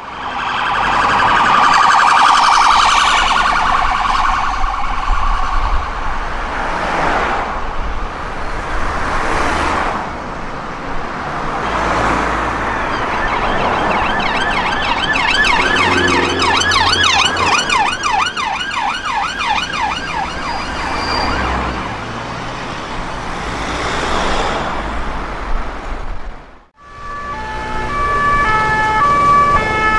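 UK emergency vehicle sirens sounding as the vehicles pass, first wailing, then switching to a fast yelp. Near the end the sound cuts to a different siren playing in stepped tones.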